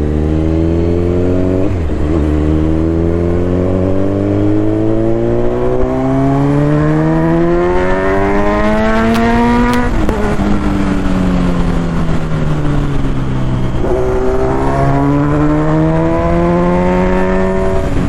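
Kawasaki Z900 inline-four engine under acceleration: the revs climb with a short break about two seconds in, keep rising for about eight seconds, fall away as the throttle is eased, then climb again near the end.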